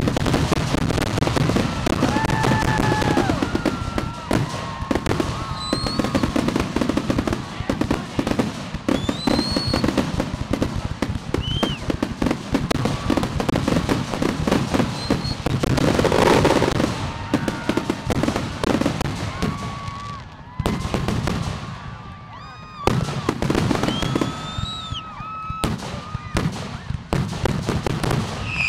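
Fireworks grand finale: a dense, rapid barrage of shell bursts and crackling, with high whistling tones gliding up and down over it. The barrage thins out for a moment about three quarters of the way through, then picks up again.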